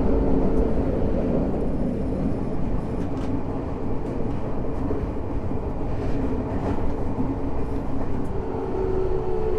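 Tokyo Metro 05 series train with Mitsubishi IGBT inverter, running in a tunnel: steady wheel-on-rail rumble with the motor tone dying away about a second in. Near the end the inverter tone returns and slowly falls in pitch as the train brakes into the next station.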